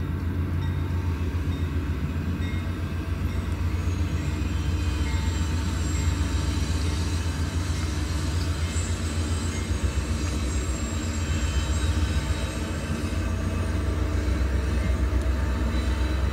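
Diesel-electric train locomotives passing with a steady low engine rumble that grows a little stronger near the end, with faint high wheel squeal over it.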